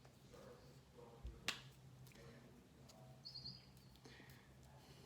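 Near silence with a faint low hum, broken by one sharp click about one and a half seconds in.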